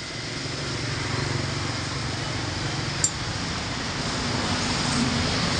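Bánh xèo batter with shrimp sizzling in a pan holding a lot of oil, a steady sizzle that slowly grows louder over a low hum. One small clink about three seconds in.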